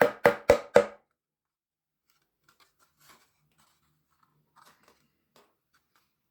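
Hammer driving small nails into a thin wooden birdhouse panel: four quick, even blows in the first second. Then a pause of a few seconds with only faint handling taps, and hammering starts again at the very end.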